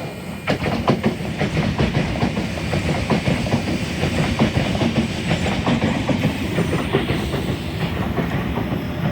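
Sydney Trains H-set "Oscar" double-deck electric train running close past, its wheels clacking rapidly over the rail joints over a steady rumble. It gets loud about half a second in and stays loud.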